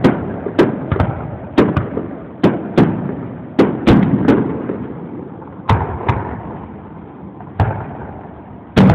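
Fireworks display: aerial shells bursting, about ten sharp bangs at irregular intervals, each followed by a rolling echo that fades, with a short lull before a last bang near the end.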